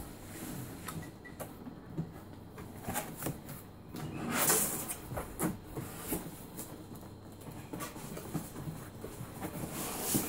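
Cardboard box and packaging being opened and handled: scattered clicks, knocks and rustles, with a longer, louder scraping rustle about four and a half seconds in.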